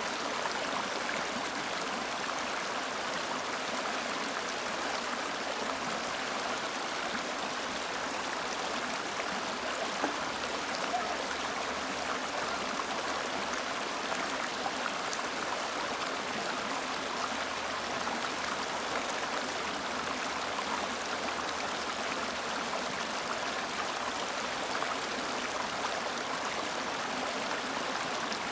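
River water flowing: a steady, even rush with no change through the whole stretch, and a couple of faint splashes about ten and eleven seconds in.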